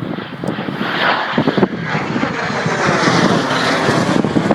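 CF-18 Hornet jet fighter flying a low pass. Its twin-engine jet roar builds about a second in and holds loud, with a sweeping shift in pitch as it goes by.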